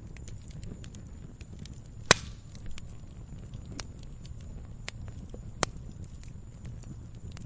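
Wood fire crackling: a steady low rumble of the flames with scattered small snaps, and two sharp, louder pops, about two seconds in and again about five and a half seconds in.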